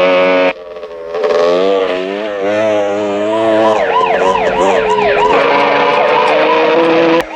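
Police car sirens over a running vehicle engine: a slow wavering wail that switches to a fast yelp about three and a half seconds in. The sound cuts off abruptly about half a second in and again near the end.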